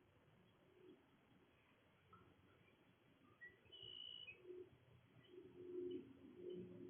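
A dove cooing faintly in low, repeated notes through the second half, with a few brief high chirps from small birds earlier on.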